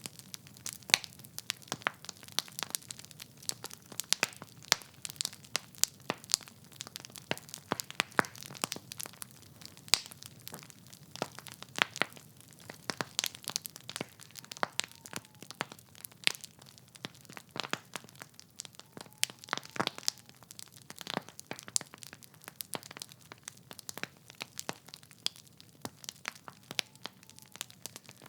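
Wood fire in a fireplace crackling: burning logs giving off irregular sharp pops and snaps, several a second, over a soft low rumble of the flames.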